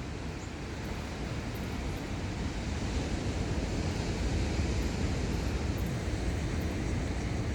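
Wind rumbling on the microphone over the wash of surf on a beach, a steady noise that grows a little louder about three seconds in.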